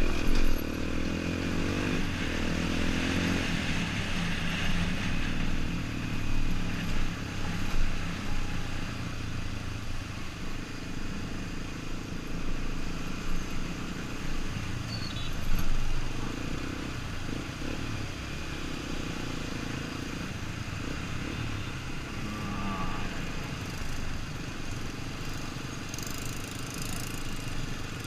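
Yamaha XTZ 125 dirt bike's single-cylinder four-stroke engine running under way, its pitch rising and falling several times as the throttle and gears change.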